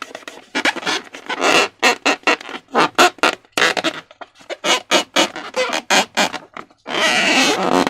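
Slime being squeezed and worked: irregular wet squelches and sharp crackling pops, with a denser run of crackling about seven seconds in.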